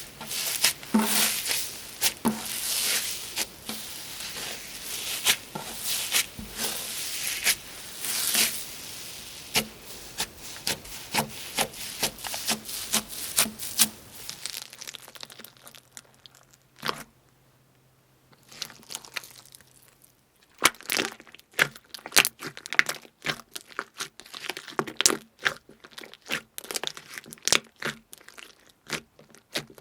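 Slime being squished, poked and pulled by hand, making a dense run of sticky clicks and crackling pops. It goes quiet for several seconds about halfway through, with one loud pop, then resumes with quick sharp pops.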